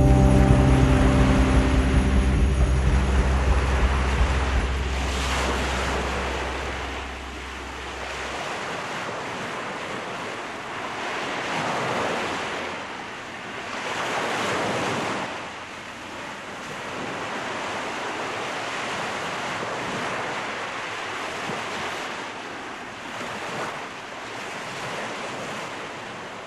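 Surf washing onto a shore, swelling and falling back every couple of seconds, as the song's last sustained chord dies away over the first several seconds.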